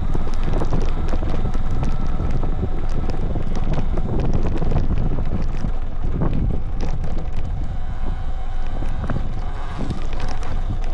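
Wind buffeting a handlebar-mounted microphone on a moving electric dirt bike, with frequent small clicks and knocks from the bike and tyres over a rough dirt road.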